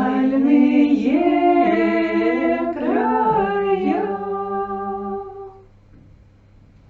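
Women's voices singing an old Russian folk song in close harmony, unaccompanied. They end on a held chord that fades out about five and a half seconds in, leaving a low steady hum.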